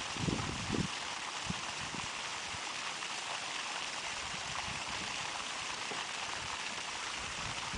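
Water rushing and splashing steadily from a sump pump's 1½-inch PVC discharge pipe, with a few low thumps in the first second.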